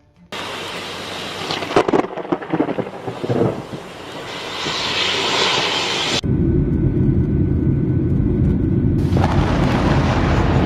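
Close thunder: a sharp, crackling clap comes about two seconds in and rolls on into a rising rumble. About six seconds in the sound switches abruptly to a loud, deep, steady rumble.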